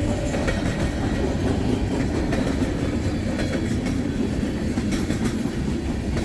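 Freight train cars rolling past, a steady rumble with wheels clicking over the rail joints.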